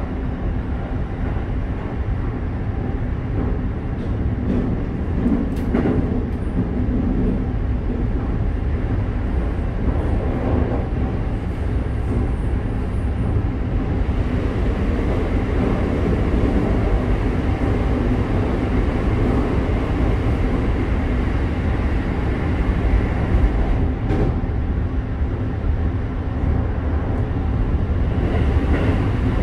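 Running noise heard inside a Keikyu 1000 series electric train car with Mitsubishi IGBT-VVVF control: a steady rumble of wheels on rail, growing a little louder about halfway through.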